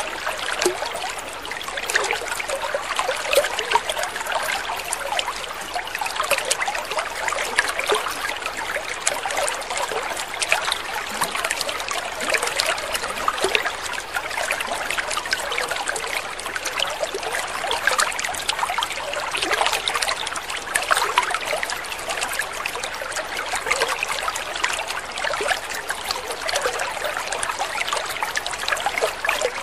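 Water trickling and splashing steadily: an unbroken babble of many small splashes.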